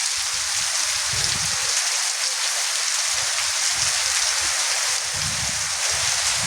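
Heavy monsoon rain falling steadily: a dense, even hiss of rain on the ground and surfaces, with low rumbles coming and going.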